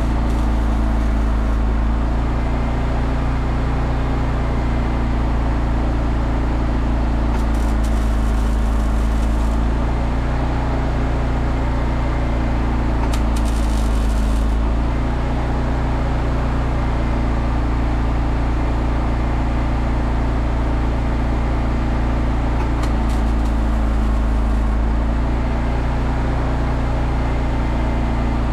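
Welding machine running with a steady low hum, with three short crackling bursts of MIG tack welding, each a second or two long.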